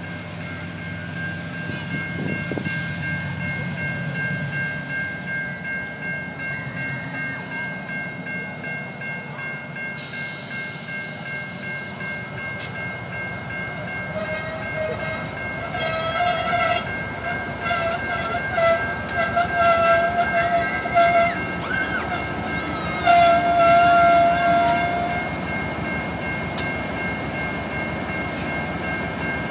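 Norfolk Southern GE Dash 9-40CW diesel locomotive leading a freight train over a grade crossing: its horn sounds a series of blasts from about halfway in, the last one long and loudest, over the rumble of the engine and the passing railcars. The crossing's warning bell rings steadily throughout.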